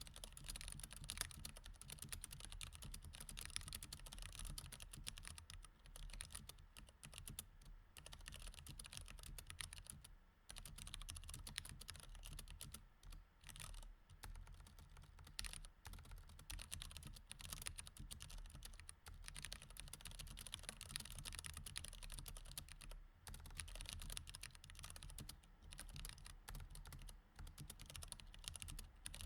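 Fast, continuous typing on a mechanical keyboard with Cherry MX Red switches, a dense patter of soft key clicks with a few brief pauses.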